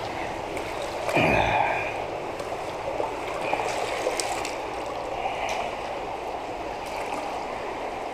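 Water running steadily through a drainage tunnel, with one louder sudden knock or splash about a second in and a few fainter splashes after it.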